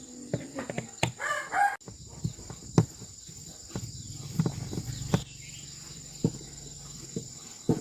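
A rooster crows once, briefly, about a second in, over scattered sharp clicks and taps, with a low steady hum in the second half.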